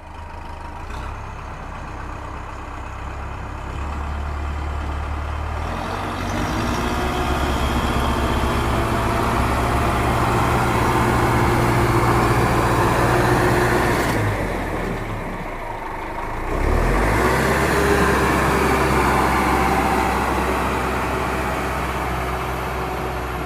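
Tractor engine running loud and steady, growing louder over the first several seconds, easing off for a couple of seconds a little past the middle, then picking up again.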